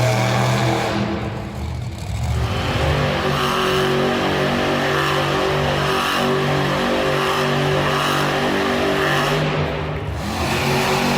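Monster truck engine revving hard under throttle, pitch stepping up and down, with brief throttle lifts about a second and a half in and near the end.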